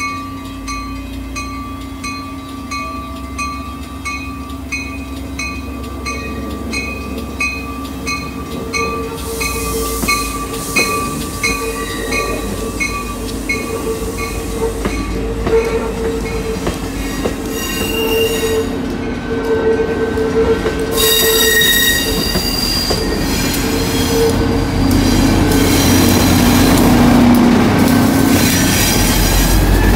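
Shore Line East push-pull train with a GP40-3H diesel locomotive pushing at the rear, rolling slowly past: a bell rings about twice a second for the first ten seconds or so, then the wheels squeal on the rails and the diesel's running grows louder as the locomotive draws level near the end.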